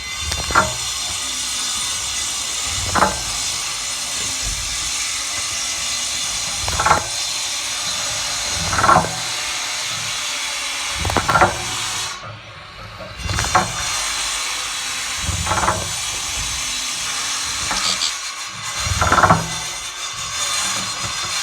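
Short splashes, one every two to four seconds, of a goldfinch bathing in shallow water. They sit over a steady high-pitched background.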